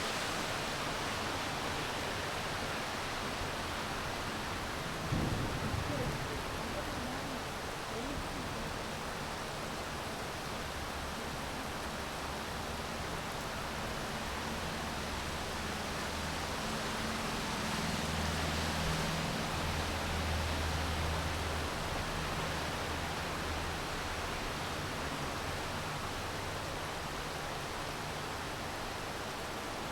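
Steady rain falling, an even hiss. A short low thump comes about five seconds in, and a low hum swells through the middle, loudest around twenty seconds in.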